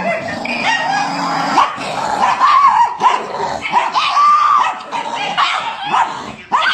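A dog making a rapid string of short, high-pitched calls.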